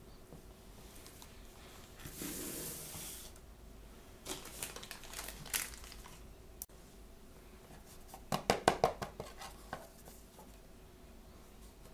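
Blind-bag packaging being torn open and crinkled by hand: a tear about two seconds in, scattered crackles, then a quick loud run of crackling near the end.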